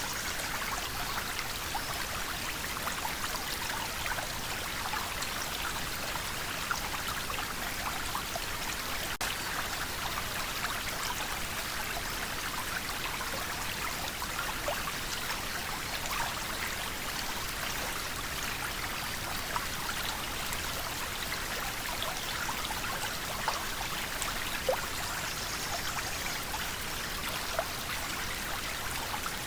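River water flowing steadily over stones, a constant rushing with small splashes and droplet ticks scattered through it.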